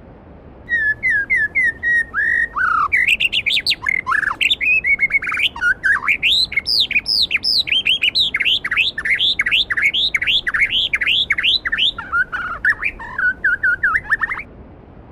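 A songbird singing one long, varied song of rapid whistled notes, sweeps and trills, starting just under a second in and stopping about a second before the end. A steady rush of stream water runs underneath.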